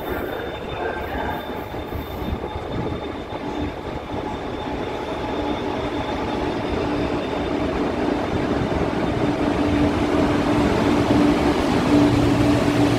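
KTX high-speed train approaching and running past along the platform track, its rolling rumble growing steadily louder as it nears. A steady tone comes in about halfway through and strengthens as the power car goes by.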